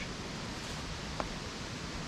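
Steady wind noise with leaves rustling, and one faint click about a second in.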